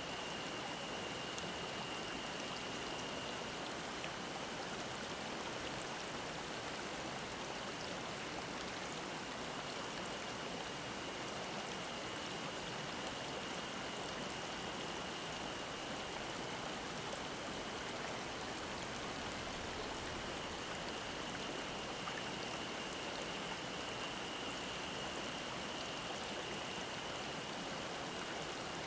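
Mountain stream flowing in a steady, even rush, with a single high, steady cicada drone running over it, briefly broken about four seconds in.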